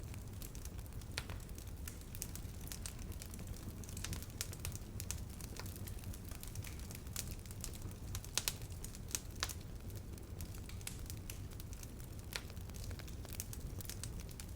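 Wood fire crackling: irregular sharp snaps and pops of burning wood over a steady low rumble, with a quick pair of louder snaps a little past the middle.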